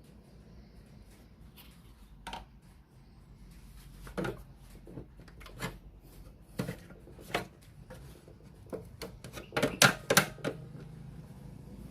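Scattered clicks and light knocks of hard objects, with a quick run of several knocks near the end, as of tools and parts being handled during work on a radio cassette player.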